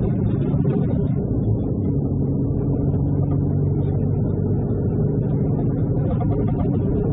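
Truck engine running steadily under way, with road noise, heard from inside the cab.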